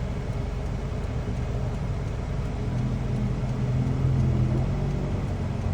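Car engine and road noise heard from inside the cabin while driving, a steady low rumble; a steadier engine hum comes in about halfway through.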